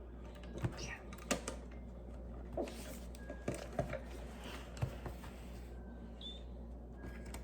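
Light, irregular clicks and taps of plastic Lego pieces being handled and pressed together.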